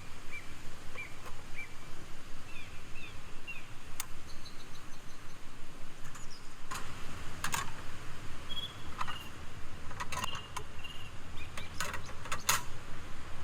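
Small songbird chirping over and over in short, high, bending notes, a couple each second, over a steady forest ambience. Several sharp clicks or snaps come in the second half.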